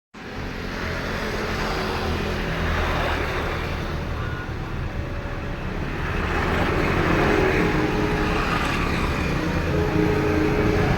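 Steady rumble of road traffic and passing motor vehicles, growing a little louder about six seconds in.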